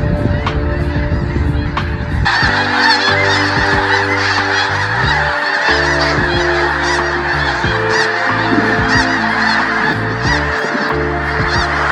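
A large flock of geese honking, many short calls overlapping continuously, over steady low sustained tones.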